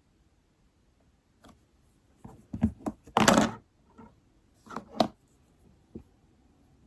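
A handful of irregular knocks and thunks on a desk as things are handled or set down, with the loudest, longer noise just after three seconds in and another sharp knock near five seconds.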